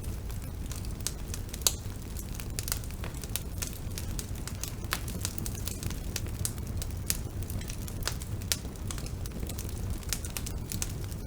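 Bonfire burning: irregular sharp crackles and snaps of burning wood over a steady low rumble of the flames, with one louder pop a little under two seconds in and another about eight and a half seconds in.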